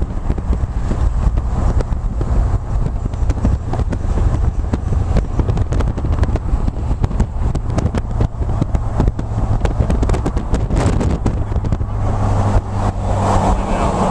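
Car driving at speed: a steady low engine drone with road and wind noise, and rapid crackling through the middle stretch.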